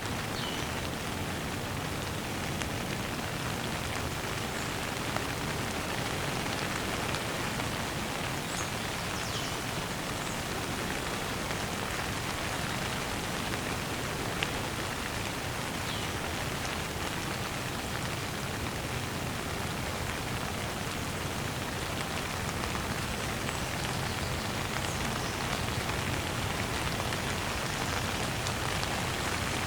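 Steady rain falling, a dense, even patter.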